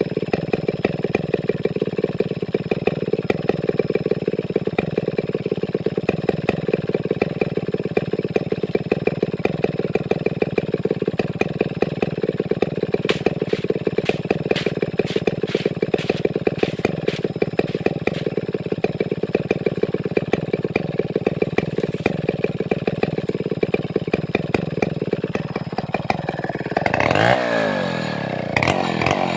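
Large two-stroke chainsaw of the Stihl 070 / New West 707 type idling steadily, with a run of clicks partway through. Near the end the engine revs up sharply.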